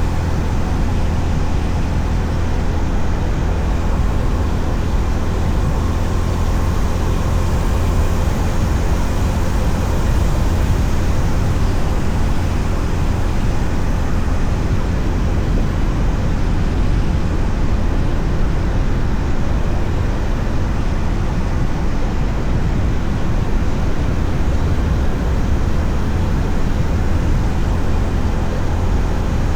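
Honda CB350RS motorcycle riding at a steady speed: a loud, constant rush of wind and road noise mixed with engine sound, heaviest in the low rumble and unchanging throughout.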